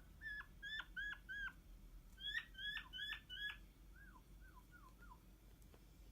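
King quail giving faint, short peeping calls that slide downward in pitch: two quick runs of about four notes each, then four softer falling notes near the end.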